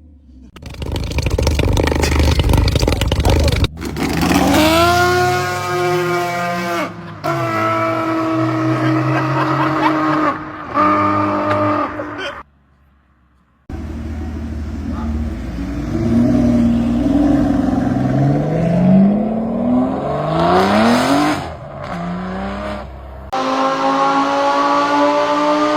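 A run of separate clips of high-performance car engines revving and accelerating hard, the pitch climbing and dropping back at each gear change. The clips are hard-cut together, with about a second of near silence roughly halfway.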